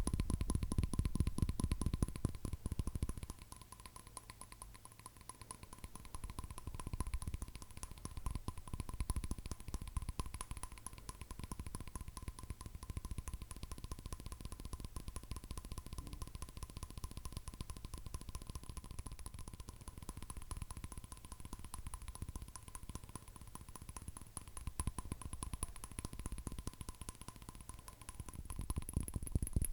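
Rapid fingernail tapping, a dense run of quick taps; heavier and deeper for the first few seconds and again near the end, lighter in between.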